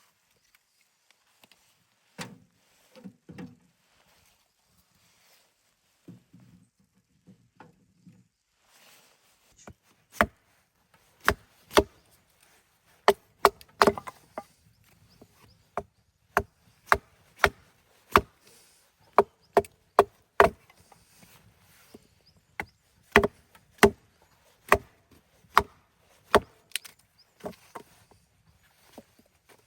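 Wood being chopped with a hand blade: a few soft knocks, then from about ten seconds in a long run of sharp, irregular strikes, roughly one or two a second.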